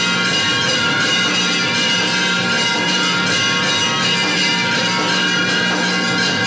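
Hindu temple aarti bells ringing continuously and densely, many overlapping ringing tones struck in rapid, steady succession.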